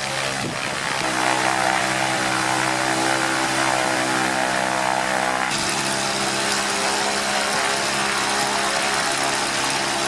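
Piston engine of an HM 293 light aircraft running on a ground test with its new propeller turning, freshly overhauled with both cylinder heads replaced. It runs steadily and gets louder about a second in as the revs come up.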